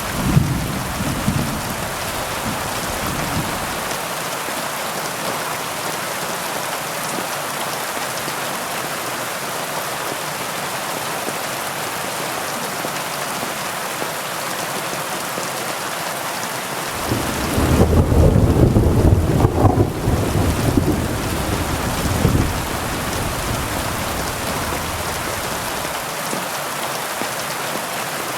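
Heavy rain falling in a steady hiss. A deep rumble fades out in the first few seconds, and a louder rolling rumble swells up about two-thirds of the way through, then dies away.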